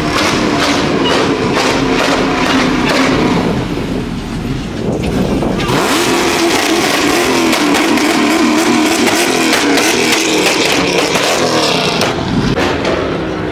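Car engine revving loudly through its exhaust, dropping back briefly, then held at high revs for several seconds with the pitch wavering before easing off near the end.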